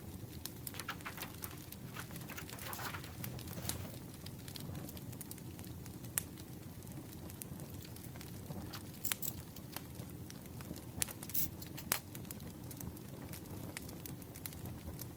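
Campfire crackling over a steady low rumble, with light clicks and rustles of paper and stationery being handled scattered through it.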